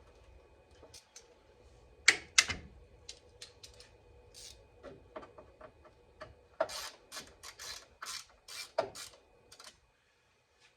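Tools and car parts being handled. Two sharp knocks come about two seconds in, then a string of clicks, rattles and scrapes that stops shortly before the end.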